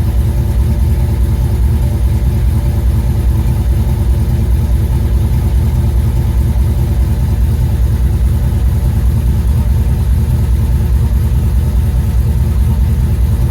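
1978 Ford Bronco's V8, running on Holley Sniper throttle-body fuel injection, idling steadily during warm-up after a cold start below zero.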